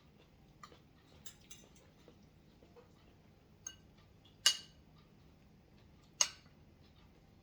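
Eating utensils clinking against dishes: faint small clicks, then two sharp ringing clinks, the second about two seconds after the first, over a faint low hum.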